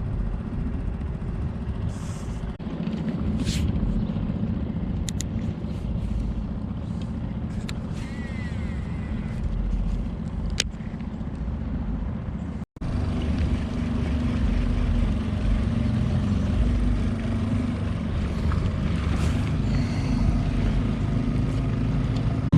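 Small Tohatsu 3.5 hp outboard motor running steadily under way at part throttle while being broken in, over a steady hiss of wind and water. The sound cuts out for an instant about halfway through.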